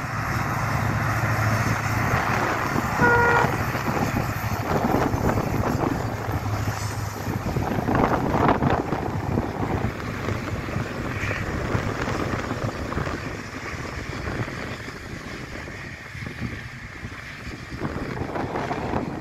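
A passenger train rolling past behind a diesel locomotive: a steady low engine drone over the broad rumble of the coaches on the rails, with a short horn toot about three seconds in.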